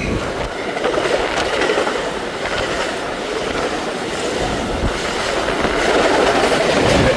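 An express train passing through the station at speed without stopping: a steady, loud rush of wheels on rail with a clickety-clack of rail joints, swelling slightly near the end.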